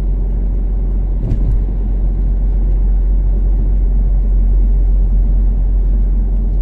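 Toyota Caldina ST246W's turbocharged 3S-GTE four-cylinder and its road noise while cruising on the expressway: a steady low rumble, with a brief thump about a second in.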